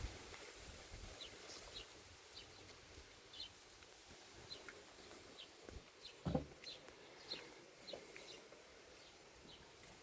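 Small birds chirping faintly in short, scattered calls, with one soft thump about six seconds in.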